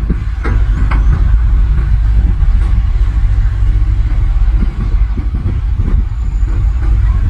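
Heavy earthmoving equipment's diesel engine running with a steady low rumble, with two short knocks about half a second and one second in.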